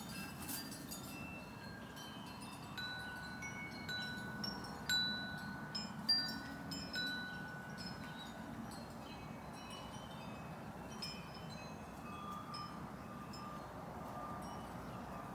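Wind chimes struck irregularly by the breeze, ringing several notes at different pitches, some of them ringing on for several seconds.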